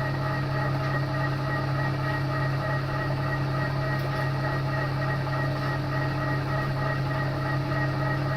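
TOS milling machine running steadily: a low hum with several steady tones above it from the motor and spindle drive, unchanging throughout.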